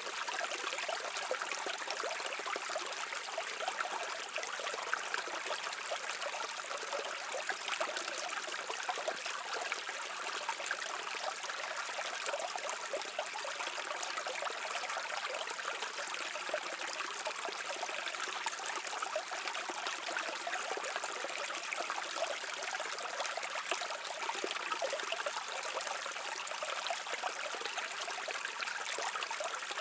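A shallow stream running steadily, water trickling and splashing over stones with a bright, hissing texture and little low rumble.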